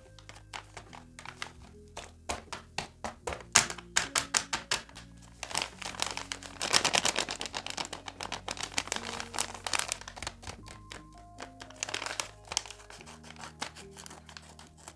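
Paper crinkling, rustling and tapping as a handmade paper blind bag is opened and its paper contents handled, with a dense stretch of crinkling about halfway through, over background music.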